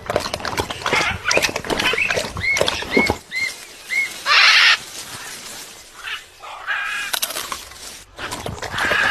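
Parrot sounds: busy clicking and clattering, then four short chirps in quick succession, then a loud, harsh half-second screech about four seconds in, followed by fainter calls.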